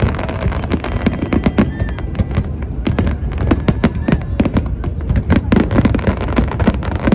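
Fireworks display: a dense, continuous run of booming and crackling explosions, several bangs a second with no pause.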